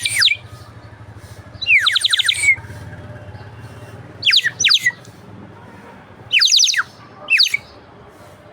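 Water-filled bird whistle blown in six short warbling bursts of quick falling chirps, imitating sparrows. A low steady hum runs underneath.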